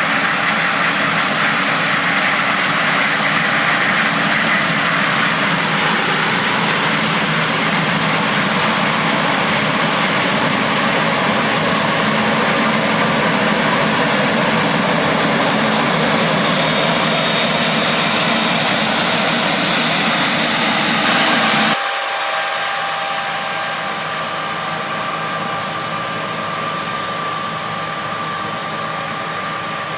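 John Deere S670 combine harvester running steadily while harvesting soybeans: a continuous engine and threshing-machinery drone. About 22 seconds in, the sound drops abruptly to a quieter, thinner but still steady machine hum.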